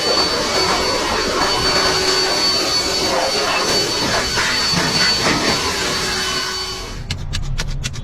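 Leaf blower running steadily with a high whine, blowing debris off; it cuts off about seven seconds in, followed by a few light clicks.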